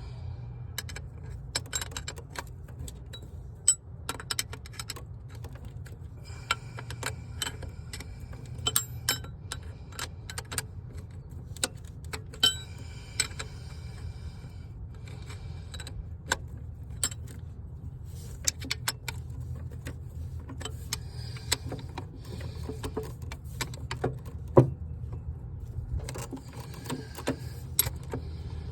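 Metal hand tools clinking and rattling, with runs of rapid clicking from a ratchet wrench, while a starter is bolted into a Bobcat MT100 mini track loader. A steady low hum runs underneath.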